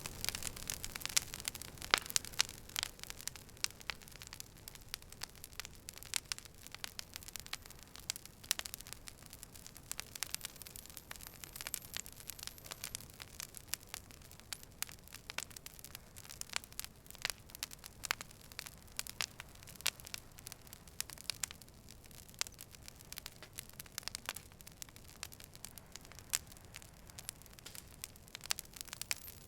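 Wood fire crackling: frequent irregular sharp pops and snaps over a soft steady hiss of burning.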